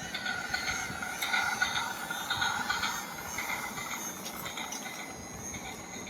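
Train running with its wheels squealing: several high, wavering squealing tones over a rumble, loudest in the first half and easing off after about three seconds.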